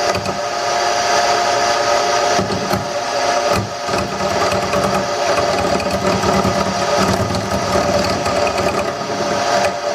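Wood lathe running steadily with its motor hum while a roughing gouge cuts a spinning wooden handle blank, giving a continuous scraping with frequent quick knocks.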